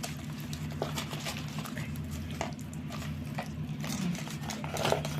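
Thick maida-and-curd batter being mixed in a bowl: irregular wet slaps and squelches, over a steady low hum.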